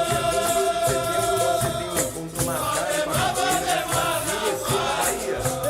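Capoeira music: a chorus singing the response with a long held note, over a steady rhythm of berimbau and shaken caxixi rattle.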